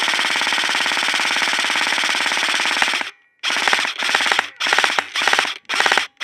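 Airsoft rifle firing on full auto: one long burst of about three seconds, then five short bursts of about half a second each.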